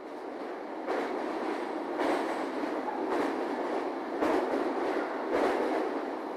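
JR East 701-series electric train at the station platform: a steady rushing rumble with a soft beat about once a second.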